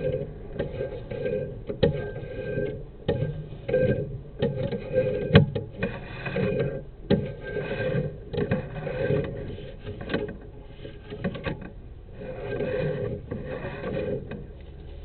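Irregular clicks, knocks and rubbing from a sewer inspection camera's push cable being fed down the line, with a steady low rumble under them.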